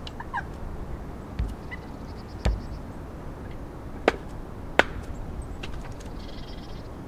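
A blade chopping into a block of wood: irregular sharp knocks, four of them louder, with lighter taps between.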